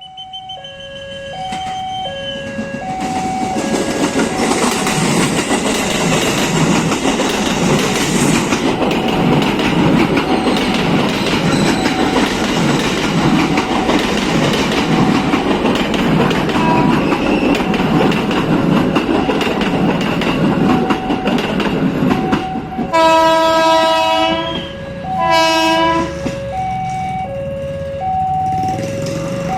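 A train passing close by with a steady rush of wheels on rail. It sounds its horn twice near the end: a longer blast, then a shorter one. Throughout, a level-crossing alarm switches back and forth between two tones.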